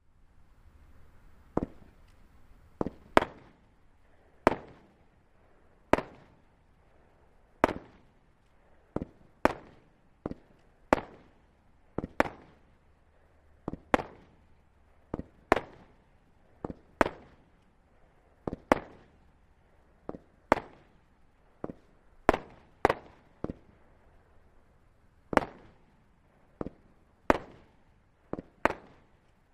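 Consumer firework battery (25-shot cake) firing its shots in sequence: a long string of sharp bangs, roughly one to two a second at uneven spacing, each with a short echoing tail.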